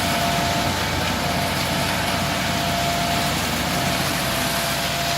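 A large engine idling steadily, with a thin whistling tone that comes and goes on top of it.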